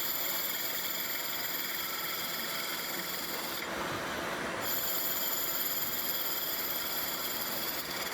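Workshop machinery running over a dense, steady clatter, with a high whine that drops out for about a second midway and then comes back.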